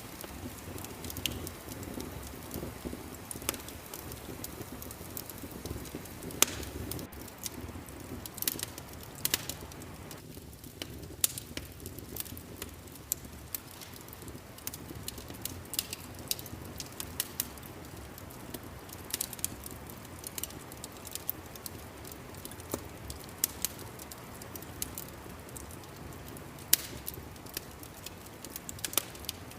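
Fireplace crackling: irregular sharp pops and snaps over a steady low rumble of burning.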